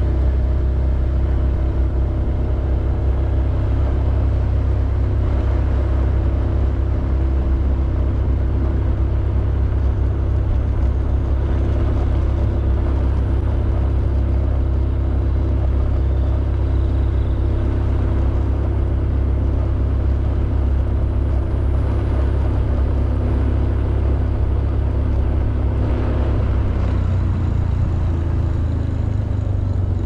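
Honda Beat 110cc scooter's single-cylinder four-stroke engine running steadily while riding, under a heavy, deep rumble. The pitch shifts slightly near the end.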